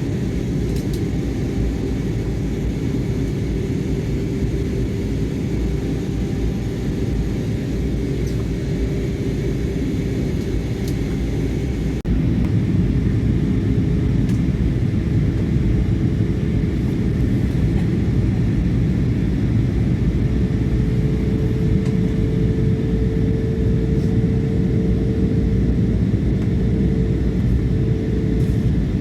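Steady low rumble of a jet airliner's cabin in flight: engine and airflow noise with a faint steady hum. It steps up louder about twelve seconds in.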